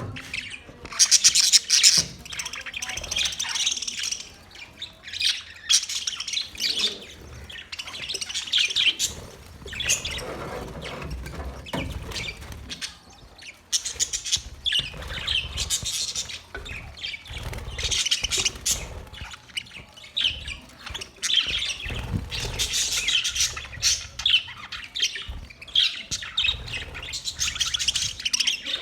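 A colony of budgerigars chattering and squawking together, a dense, continuous mix of many overlapping chirps and calls.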